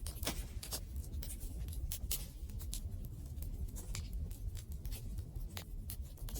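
Wood fire crackling, with irregular sharp pops and snaps of varying loudness over a low, steady rumble.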